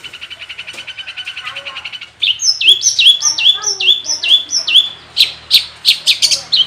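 Long-tailed shrike (cendet) in full song: a fast, even trill of rapid repeated notes for about two seconds, then a loud string of about six identical high notes that sweep down and level off, ending in a run of sharp, loud chips. The repeated phrases are mimicry woven into the shrike's song.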